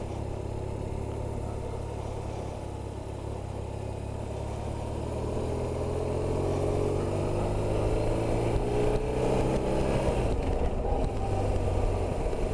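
BMW R1150RT's flat-twin boxer engine under way on the road, heard from the rider's seat. It picks up from about four seconds in, the engine note rising in pitch and growing louder, then drops back near ten seconds.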